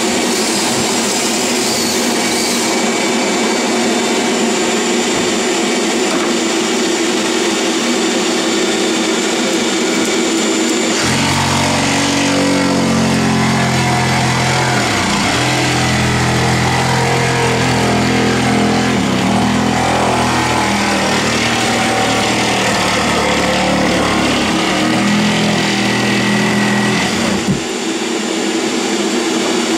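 A motor running steadily. From about eleven seconds in until a couple of seconds before the end, a deeper pitched hum joins it, wavering and dipping in pitch several times.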